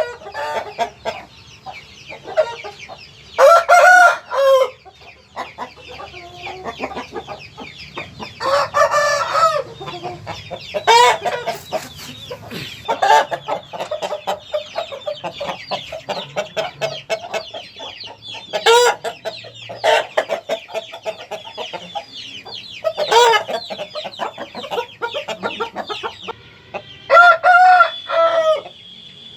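Aseel roosters crowing, with about three long crows and several shorter calls, over steady clucking from the flock.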